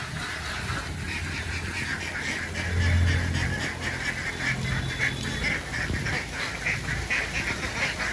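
A large flock of domestic ducks quacking without pause, many calls overlapping. A low hum runs underneath and swells briefly about three seconds in.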